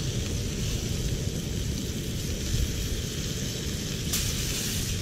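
Lingcod fillets frying in butter in a pan, sizzling steadily over a low rumble, with a brighter burst of sizzle about four seconds in as another piece is laid in the pan.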